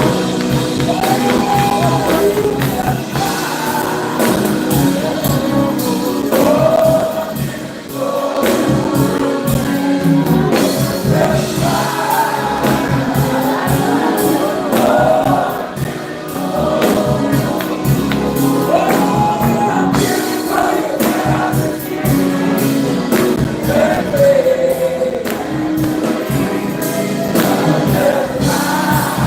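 Gospel choir and congregation singing over live band music, with a tambourine keeping the beat.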